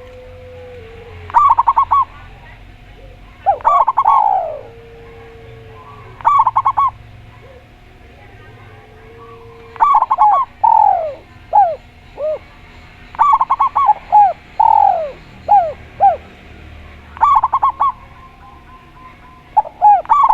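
Two doves calling in turn: a zebra dove's quick staccato cooing phrases with falling notes, repeated every few seconds, and a spotted dove's lower, drawn-out coos between them.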